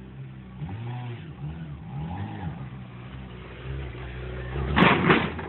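Honda CBR600's inline-four engine idling, then blipped in several short revs that rise and fall in pitch as the bike is ridden up a loading ramp. Near the end there is a loud, harsh burst of noise.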